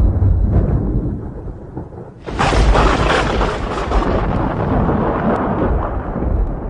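Thunder: a low rumble fades over the first two seconds, then a sudden sharp crack of a nearby thunderclap about two seconds in, rolling on as a long rumble that slowly dies away.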